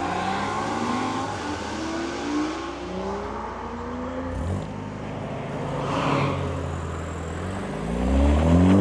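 Sports cars pulling away one after another, first a Toyota GR Supra and then a black BMW coupe, each engine revving up as it accelerates through the gears. The loudest rise comes near the end as the BMW passes close by.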